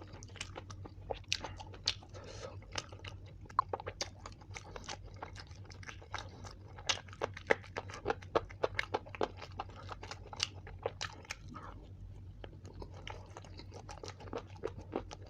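A person chewing and biting food close to the microphone: a dense, irregular run of wet mouth clicks and crunches, over a steady low hum.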